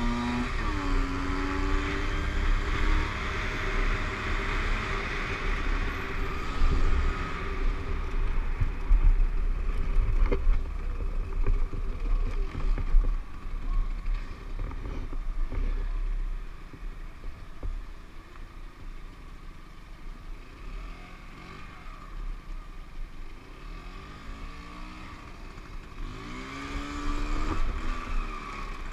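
Motorcycle engine running under way, with heavy wind rumble on the microphone. The engine pitch rises as it accelerates at the start and again near the end, with a quieter stretch after the middle.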